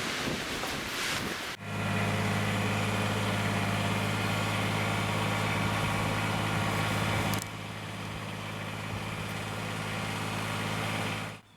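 Kubota BX sub-compact tractor's diesel engine running at a steady speed. It starts suddenly after about a second and a half of wind noise, drops in loudness about seven seconds in, and cuts off just before the end.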